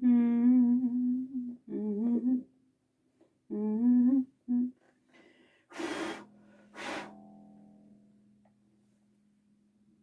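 A man humming a few short melodic phrases. Then come two short noisy bursts, and a low note that rings on and slowly fades away.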